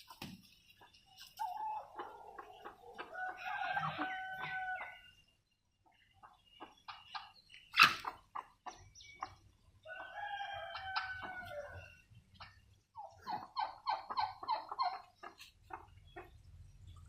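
Domestic fowl calling: two long, drawn-out pitched calls, one starting near the beginning and one about ten seconds in, then a fast run of short rapid notes near the end. There is a single sharp knock about eight seconds in.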